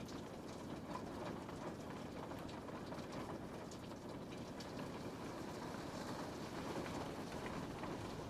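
Steady rain falling on a window, an even wash of noise with scattered drops ticking against the glass.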